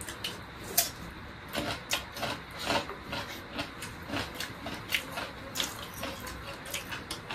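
Close-up mouth sounds of people eating by hand: chewing with a string of short, sharp smacks and clicks at an irregular pace, about one or two a second.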